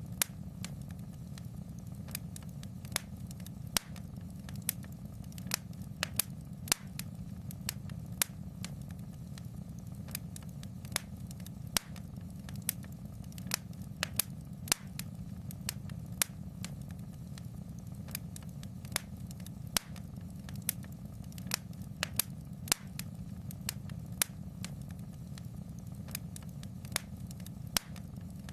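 Wood fire crackling: sharp pops and snaps, about two a second at irregular intervals, over a steady low rumble of the flames.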